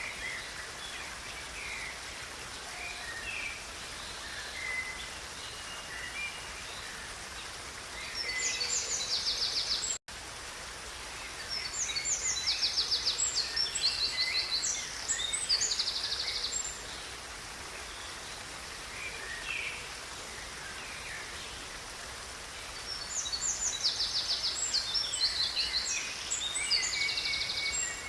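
Steady rushing of a river with songbirds singing over it: three spells of loud, fast, high trilled song, and softer scattered chirps between. The sound cuts out for an instant about ten seconds in.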